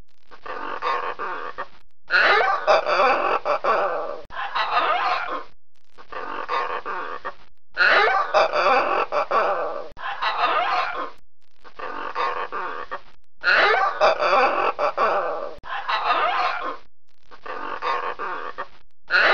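Red macaws squawking, harsh screeching calls. A loud group of calls comes back about every six seconds in the same pattern, with softer calls between.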